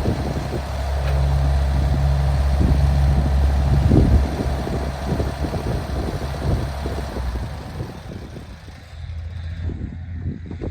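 An engine running steadily with a low hum, easing off after about seven seconds.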